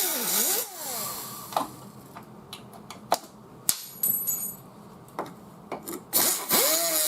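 Mini die grinder with a cut-off wheel cutting metal pulling attachments off a car's quarter panel in short bursts. Its whine sags in pitch as the wheel bites and climbs again between cuts, with a few sharp clicks in between.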